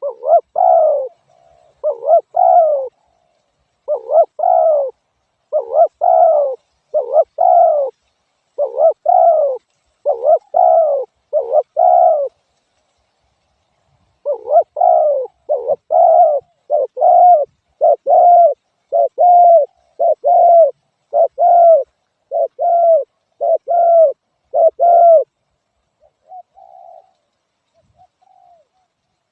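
Spotted dove cooing over and over in steady, evenly spaced phrases. There is a short break near the middle, and the calls turn faint near the end.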